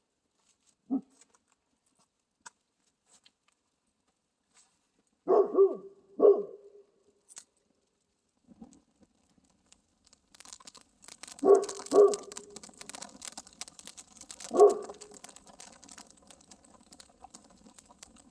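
A dog barking several times in short single and double barks. From about ten seconds in, a campfire crackles and pops underneath.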